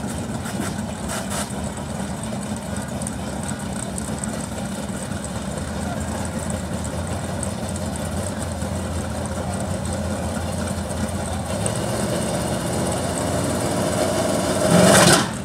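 Drag car's engine idling at the starting line, a low steady rumble that slowly gets louder over the last few seconds, ending in a brief loud burst near the end.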